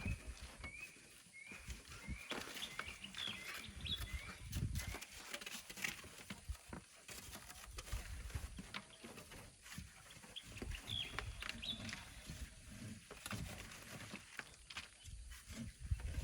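A small bird chirping in short repeated notes, quickly in the first few seconds and again briefly later on, over scattered clicks and scrapes and uneven low rumbling.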